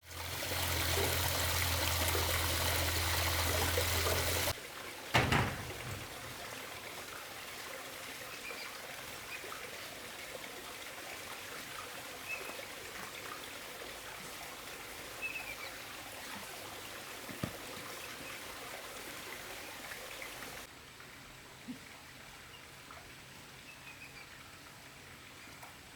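Water running or trickling, loudest in the first few seconds, with a single sharp knock about five seconds in and faint short chirps scattered through the quieter stretch that follows.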